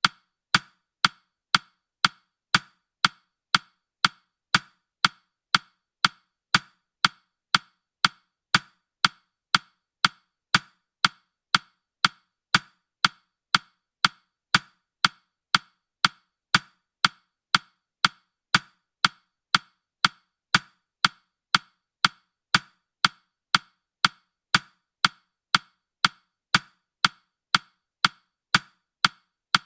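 Clock-ticking sound effect of a countdown timer: short sharp woody clicks, evenly spaced at about two a second.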